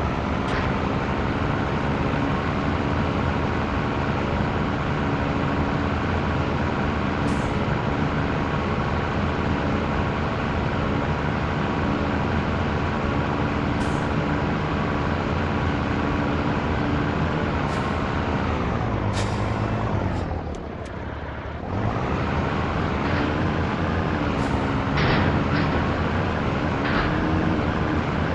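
Scania truck's diesel engine running steadily under way. About two-thirds in its pitch falls and the sound drops away for about a second, then the engine picks up again; a few brief sharp sounds come through the run.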